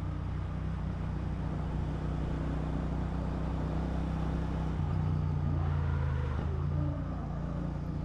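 Motorcycle engine running at steady cruising speed, heard from the rider's seat over a haze of wind and road noise. Its note shifts about five seconds in and drops back near the end, as the throttle changes.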